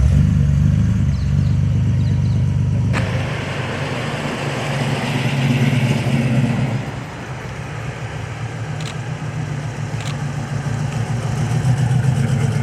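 Car engine running with a steady low rumble. About three seconds in, a broader rush of noise joins it, and the engine sound continues under it.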